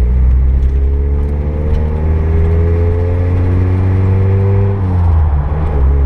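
Car engine fitted with a VW Pointer GTI camshaft, heard from inside the cabin as the car accelerates: the note rises slowly through a gear, drops about five seconds in at a gear change, then starts rising again. It is running with its auxiliary belt thrown, so without power steering or water pump.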